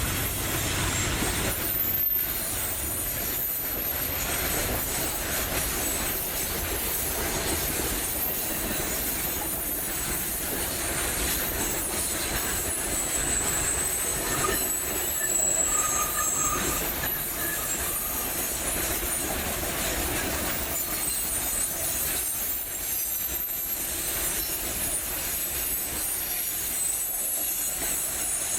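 Freight train running along the rails, a steady rumble of the cars with high, thin wheel squeals rising out of it around the middle.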